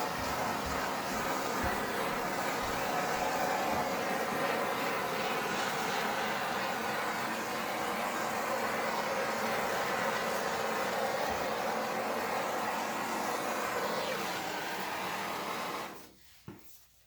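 Hair dryer blowing steadily, then switched off about sixteen seconds in, followed by a couple of small knocks.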